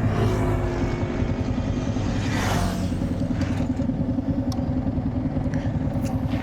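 Motorcycle engine idling steadily, with a short rush of noise about two and a half seconds in.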